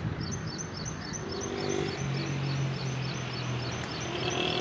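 A small bird repeating a short, high chirp rapidly, about five times a second, over steady outdoor background noise. A low steady hum joins about halfway through.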